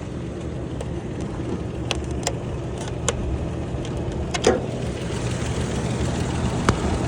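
2013 Toyota Tacoma engine idling steadily, growing slowly louder, with a few short sharp clicks and knocks over it.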